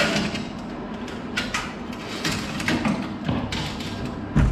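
Stiff steel garage door cable being worked around the cable drum by hand: scattered clicks and scrapes, with a heavy thump near the end.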